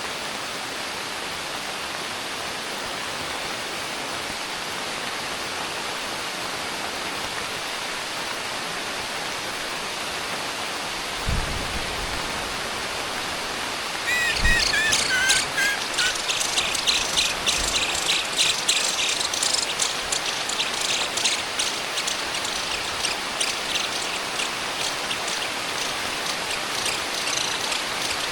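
Steady heavy rain. About halfway through, after a couple of low thumps, birds start chirping in rapid, high repeated notes that carry on over the rain.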